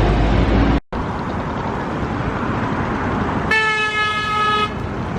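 A vehicle horn sounds once for about a second, a single steady tone over the running noise of a vehicle.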